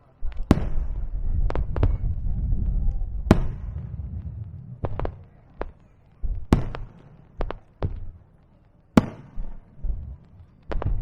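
Fireworks display: aerial shells bursting in a string of sharp bangs, some in quick pairs, over a low rolling rumble that fades after about four seconds.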